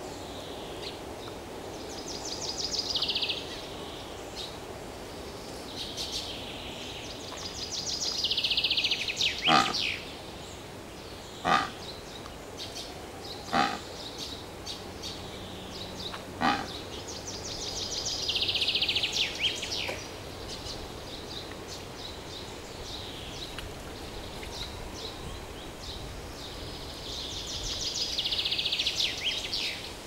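Birdsong: a bird repeats a rapid, high trill lasting two to three seconds, four times, each trill swelling and then stopping. Between the second and third trills come four sharp, loud sounds a couple of seconds apart, over a steady low background hum.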